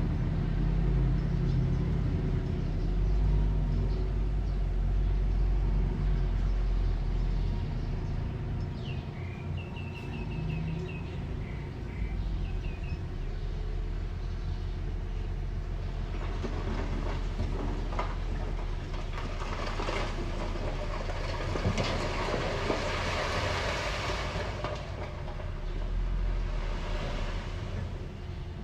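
Earthmoving machine's engine running steadily with a low rumble and rattling, clanking metal. The low engine note is strongest in the first ten seconds or so, and a rougher clatter swells in the second half.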